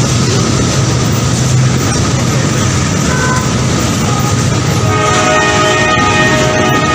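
Train running past with a steady loud rumble, its horn sounding briefly about three seconds in and then held from about five seconds in.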